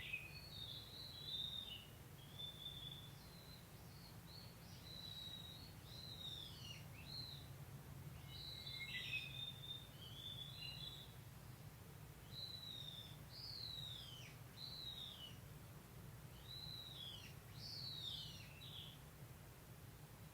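Wild songbirds calling repeatedly: short, high chirps and downward-sweeping notes every second or so, faint, over a steady low hum.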